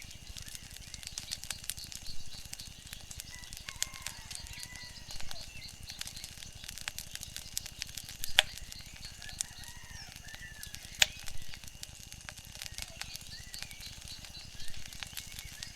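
Wood fire crackling, with scattered small snaps and two sharper, louder pops about eight and eleven seconds in. Faint small-bird chirps come and go over it.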